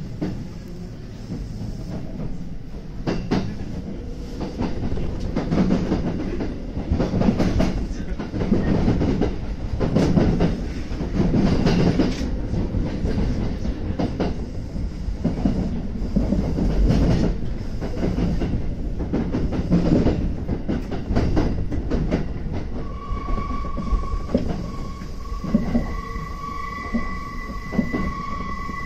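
Train running on rails: a rumble that swells and fades with the clatter of the wheels, and a steady high-pitched squeal joining about three-quarters of the way through.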